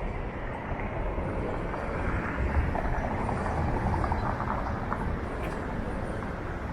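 Downtown street traffic: a motor vehicle passing close by, its rumble swelling in the middle and then easing.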